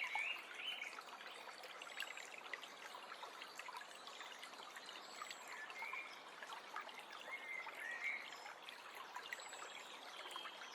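Small forest stream trickling and babbling steadily. Songbirds call now and then over it: a warbling phrase at the start, then others about halfway and two-thirds of the way through, with thin high whistles in between.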